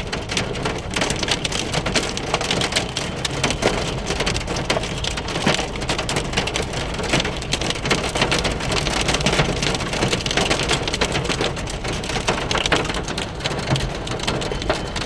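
Hailstorm: hailstones and heavy rain pelting down, a dense steady hiss crowded with sharp ticks of stones striking hard surfaces.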